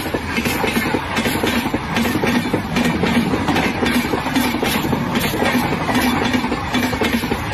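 Indian Railways passenger coaches rolling past, their steel wheels running on the rails in a steady rumble with rapid clickety-clack over the rail joints.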